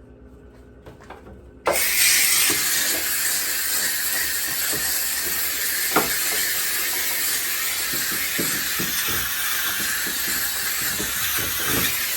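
McCulloch steam cleaner jetting steam, a loud steady hiss that starts abruptly about two seconds in, with a few light knocks through it.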